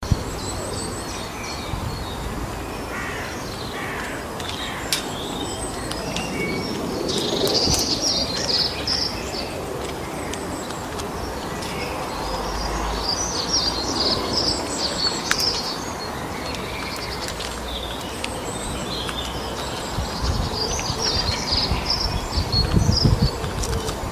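Birds chirping and calling in repeated bursts of short, high notes over a steady background hiss, with a low rumble near the end.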